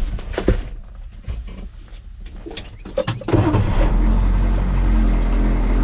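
A vehicle engine running steadily, with a few sharp knocks early on. The engine sound drops away for a few seconds and comes back stronger about three seconds in.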